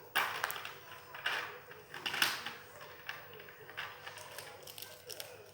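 Plastic toy train track pieces being handled: several short crackling scrapes and clicks of plastic, the loudest about two seconds in.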